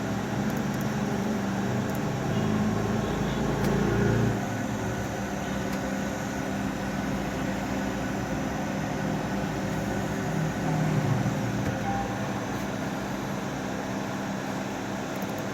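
CNC wood-carving router running, a steady machine hum that swells briefly twice.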